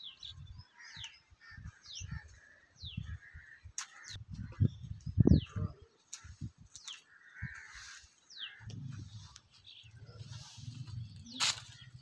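Birds chirping, one of them repeating a short, high falling whistle every half-second to a second, over low rumbling noise that turns steadier in the last few seconds. A sharp click comes near the end.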